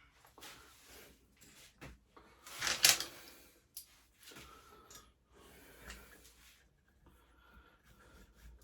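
Scattered rustling and handling noises of parts being moved, with the loudest rustle about three seconds in.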